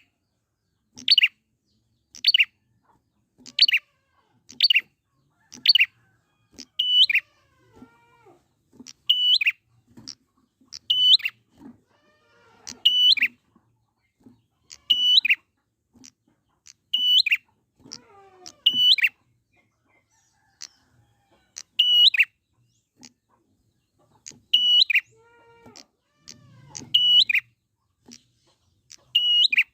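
Prinia (prenjak) calling with sharp, high chirps. They come about once a second at first, then from about nine seconds in as pairs every two seconds or so. Fainter, lower sliding calls come in between.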